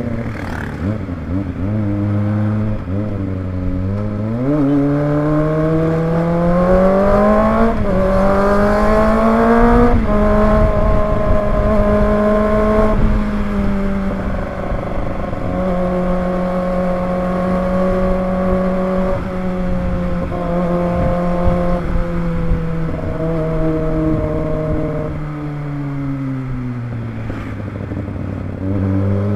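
Kawasaki ZX25R's 250 cc inline-four engine accelerating through the gears, its pitch climbing and stepping back at each upshift, then running at a fairly steady speed. Near the end it winds down as the bike slows, then picks up again.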